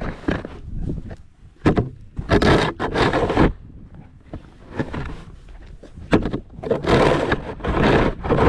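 Snow shovel scraping across a driveway in several strokes, each about a second long, with short pauses between.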